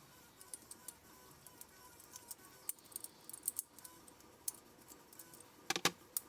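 Small metal gun parts clicking and clinking as they are handled, a scatter of light clicks with a louder cluster of knocks near the end, over faint background music.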